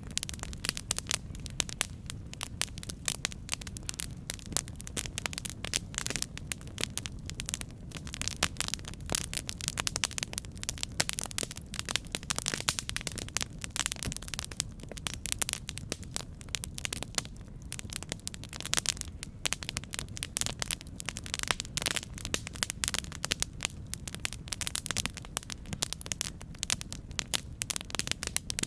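Campfire crackling, with dense irregular pops and snaps over a low, steady rumble of the burning fire.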